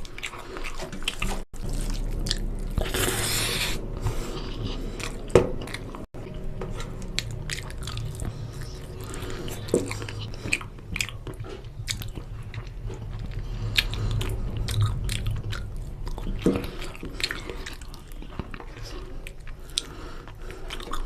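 Close-miked eating of chicken curry with rice: biting and chewing with many short wet mouth clicks and smacks. A steady low hum runs underneath.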